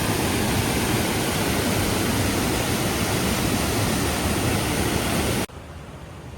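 Waterfall running: a loud, steady rush of falling water that cuts off abruptly about five seconds in, leaving a much quieter hiss.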